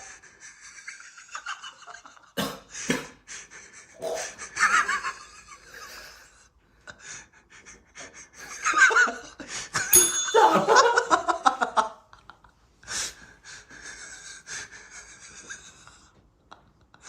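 People laughing and breathing hard with gasps, with a louder burst of laughter about halfway through.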